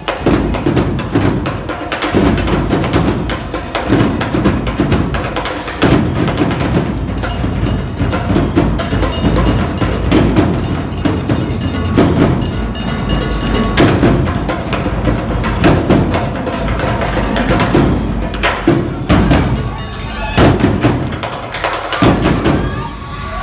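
Marching drum line playing a cadence, dense drumming with strong accented hits about every two seconds.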